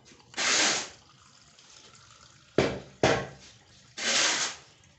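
A person drinking water: four short splashy bursts of water sound, two of them starting sharply about half a second apart near the middle.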